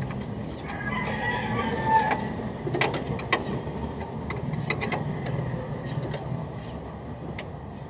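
A rooster crows once, about a second in, over a steady low hum, followed by a few sharp clicks.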